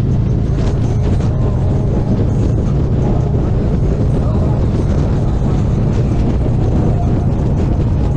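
A Harley-Davidson Street Glide Special's V-twin engine running steadily under way, with a low, even rumble and no change in speed.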